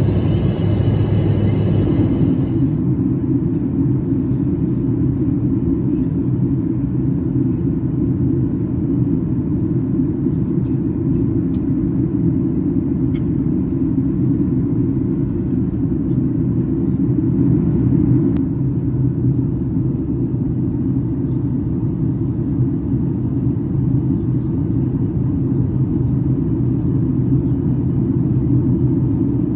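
Steady low drone inside the cabin of a Boeing 737 MAX 8 airliner in flight: its CFM LEAP-1B engines and the airflow past the fuselage, heard from a window seat as the aircraft begins its descent.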